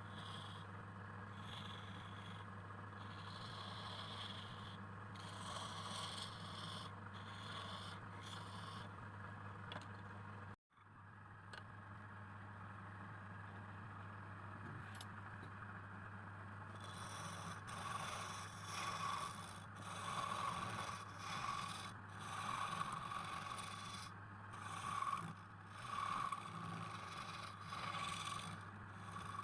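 Scraping over a steady machine hum, with a sudden break about a third of the way through. In the second half the scraping comes in repeated strokes, about one a second.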